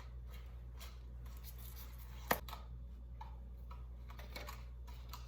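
Light clicks and scraping of a small plastic spoon working dough in a plastic candy-kit tray, with one sharp tap about two seconds in, over a low steady hum.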